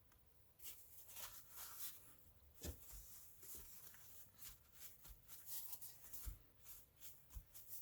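Faint rustling and light taps of paper and cardstock being handled on a craft table, with a soft knock about a third of the way in.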